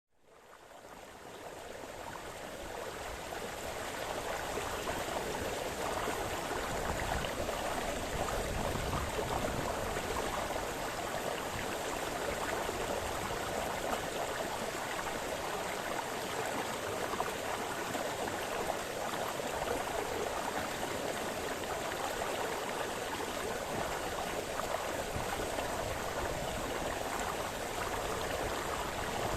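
A brook splashing and babbling over stones: a steady rush of running water that fades in over the first few seconds.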